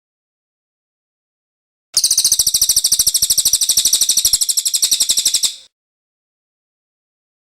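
Cililin song bird giving one rapid, high-pitched trill of evenly spaced notes, starting about two seconds in and lasting about three and a half seconds.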